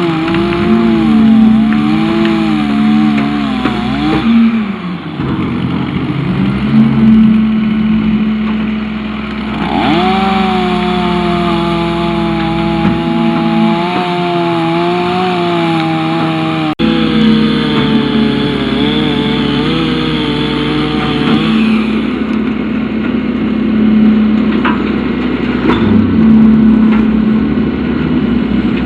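Chainsaw running during tree removal, its pitch rising and falling, over a steady engine drone. The sound breaks off suddenly once part way through and carries straight on.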